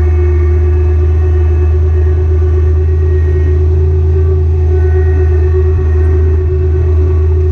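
Kubota BX Series compact tractor's diesel engine running steadily under power, heard close up: a deep, even hum with a steady higher tone over it.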